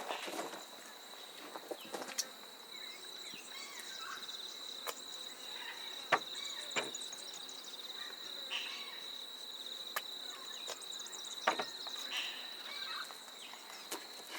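A steady, high, thin insect drone, with scattered bird chirps over it and a few sharp clicks.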